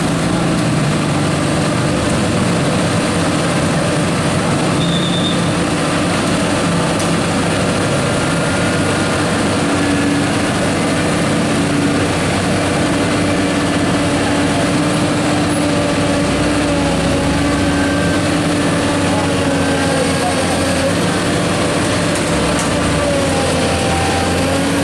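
Heavy truck diesel engines running steadily under load, their pitch drifting slightly up and down.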